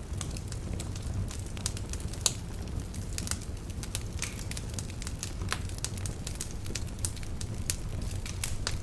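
Wood fire burning in a fireplace: irregular sharp crackles and pops from the burning logs over a steady low rumble of the flames, with one louder pop a little over two seconds in.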